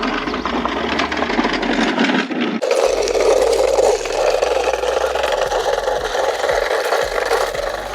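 Dock cart loaded with batteries rattling and scraping as it is wheeled over rough pavement, with an abrupt change in the noise about two and a half seconds in.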